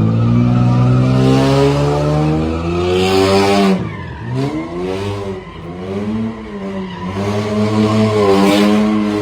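Car engine revving hard: the pitch climbs for about three seconds, drops sharply, then wavers and surges again near the end, with tire squeal at the high points.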